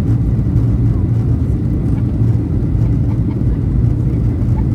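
Steady low rumble of a Boeing 737-800's CFM56-7B jet engines and airflow heard inside the passenger cabin, even in level throughout.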